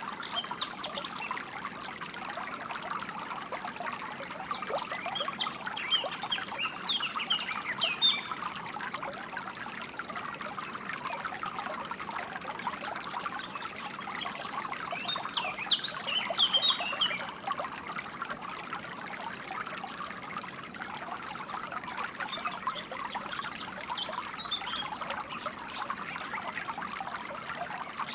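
Water trickling and babbling steadily, as in a small stream, with spells of small birds chirping high above it: a few seconds in, again in the middle, and once more near the end.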